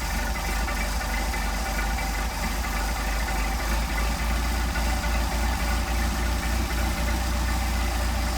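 Mercedes-Benz 190SL four-cylinder engine idling on its twin Solex carburetors, a steady low pulsing exhaust note, as the idle speed is raised from about 500 rpm back toward 800.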